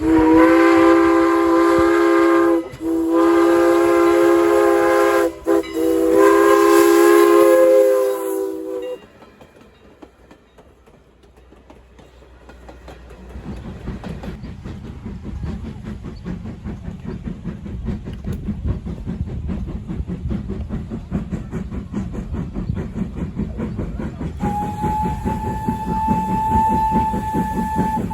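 A steam locomotive's chime whistle blows three long blasts, each a chord of several tones. After a pause a train comes closer, its rhythmic wheel-on-rail rumble growing louder. Near the end a steady high single tone sounds over the rumble.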